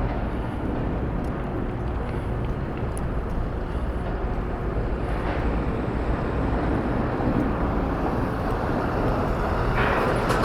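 Steady rumble of a vehicle on the move, road and engine noise with no distinct events. It grows a little brighter and louder near the end.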